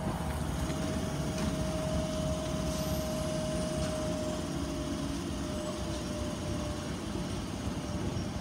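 Tyne and Wear Metrocar train standing at the platform: a steady low rumble with a steady whine that fades out about six seconds in.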